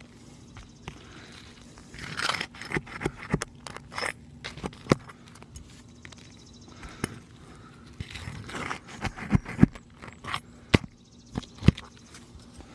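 Nails being pried out from under brittle asphalt roof shingles: irregular scraping and crackling of the shingles, with sharp clicks and knocks from the tool. It comes in two busy spells, one about two seconds in and another past the middle.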